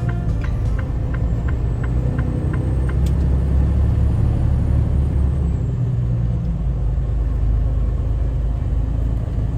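Steady low rumble of a semi truck's engine and road noise heard from inside the cab while driving. A faint, even ticking fades out over the first few seconds.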